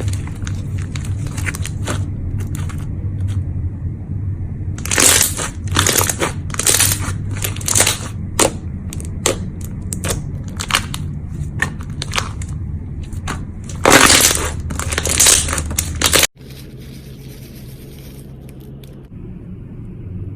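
Repeated crunching and crackling in irregular bursts over a low steady hum, cutting off abruptly about 16 seconds in to a quieter hum.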